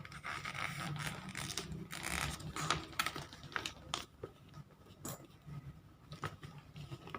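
A sheet of origami paper being folded by hand: rustling and crinkling, with several sharp crackles as the folds are creased.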